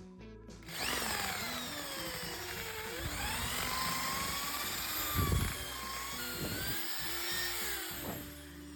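Handheld electric power tool running under load, its motor whine sliding up and down in pitch as the work presses on it. It starts just under a second in and stops near the end, with music faintly underneath.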